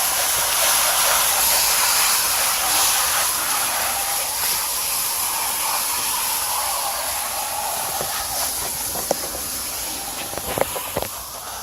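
Garden hose spraying water through an air-conditioner condenser coil, a steady hiss of spray rinsing out packed cottonwood. The spray eases near the end, with a few light clicks.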